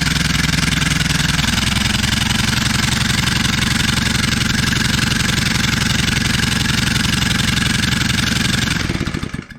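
Old small engine converted to run on compressed air at about 80 psi, running fast and steadily with rapid, even exhaust pulses. Its note shifts about a second and a half in, and it dies away near the end.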